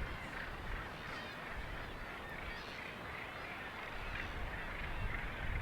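A seabird colony calling: many birds' calls overlapping into a continuous chatter, over a low rumble.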